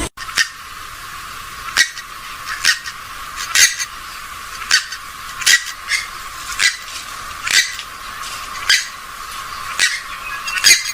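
A gallinule (swamphen or moorhen type rail) giving short sharp calls about once a second, repeated eleven or so times. The recording is thin, with no low end and a steady hiss behind the calls.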